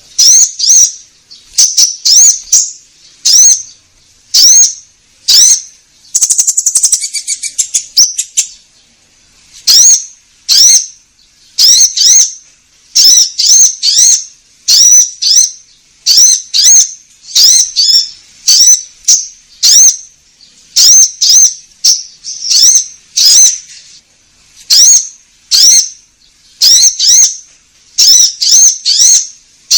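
Konin songbird calling: loud, sharp, rising chirps, mostly in quick groups of two or three about once a second, with a rapid chattering trill about six seconds in. A repeated lure call used to draw in birds.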